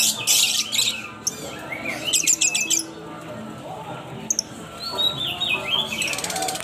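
Caged lovebirds chirping and squawking shrilly in repeated bursts, with a rapid stuttering run of calls about two seconds in.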